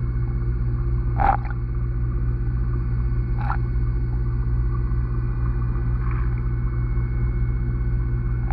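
Steady low hum and rumble of pond water picked up by a camera submerged in the pond, with a few brief knocks, the loudest about a second in.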